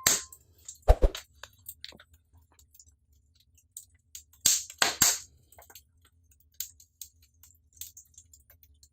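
Wood fire crackling in a brick fireplace firebox: irregular sharp pops and snaps, with louder ones about a second in and around four to five seconds in.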